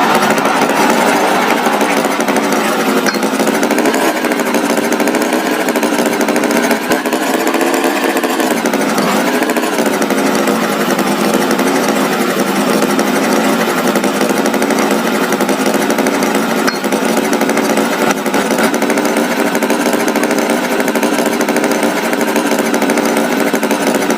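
A motor engine running steadily with a buzzing drone, its pitch wavering slightly now and then, most noticeably a dip about eight to nine seconds in.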